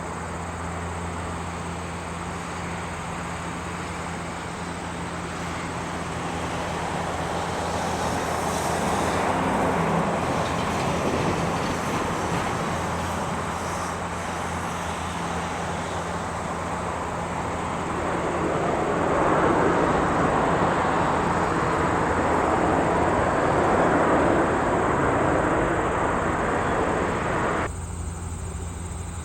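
Airbus A380 jet engine noise rumbling as the airliner comes in to land, swelling about a third of the way in and louder again in the second half, then cutting off suddenly near the end.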